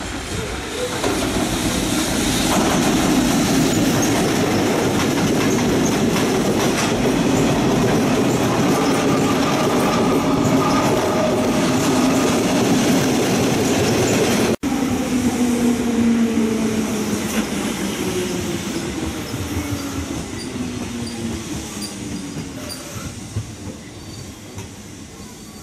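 Freight train hauled by an EF65 electric locomotive rolling past close by: a loud rumble of wheels with clickety-clack over the rail joints and some wheel squeal. After a brief break about halfway, the sound goes on with falling tones and gradually fades away.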